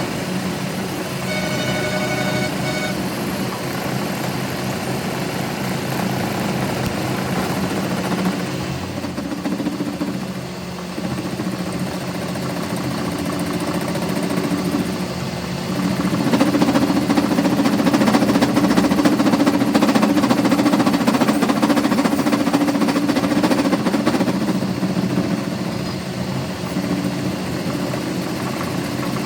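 A machine running steadily with a low hum. It grows louder for several seconds past the middle, then eases back.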